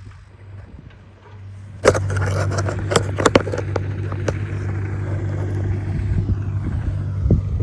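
Engine running steadily with a low hum. About two seconds in it gets louder, with a burst of clattering, scraping knocks, then runs on with a few scattered knocks.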